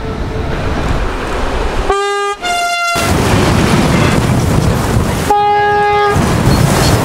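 Two-tone Makrofon train horn: a short low note followed at once by a higher note about two seconds in, then another short low note about five seconds in. Under it runs the loud rumble of the train passing close by.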